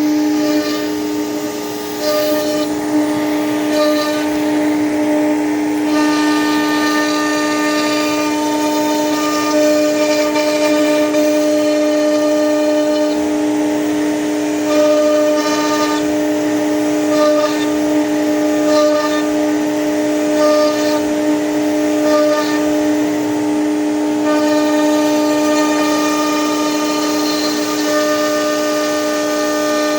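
CNC machine at work, its motors giving a steady whine of several held tones, with higher tones coming and going every second or two as it moves.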